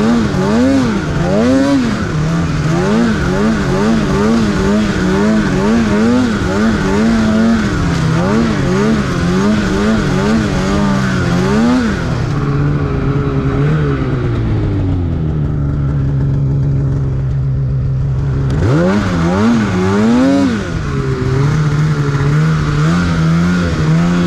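Snowmobile engine under quick, repeated throttle blips for about twelve seconds. It then drops back and runs lower and steadier, revs up a few more times about twenty seconds in, and holds a steady speed near the end.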